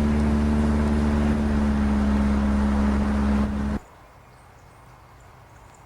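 Car engine and road noise heard from inside a moving car, a loud steady hum that cuts off abruptly about four seconds in, leaving only a faint quiet background.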